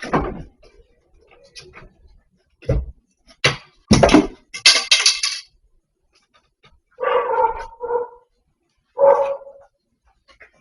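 Several sharp knocks and a rattling clatter in the first half, then three short pitched calls about seven, eight and nine seconds in.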